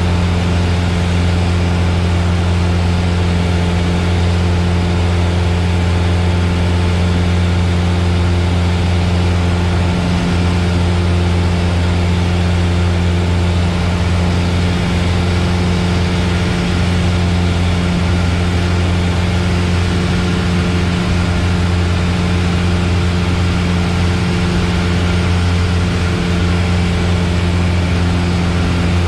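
Piper Warrior's four-cylinder Lycoming engine and propeller drone heard from inside the cabin, a loud, steady hum with a constant airflow hiss over it.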